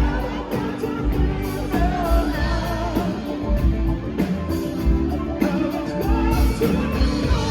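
Live rock band playing with a lead vocal over a steady beat and bass, heard as a fan's recording from the audience.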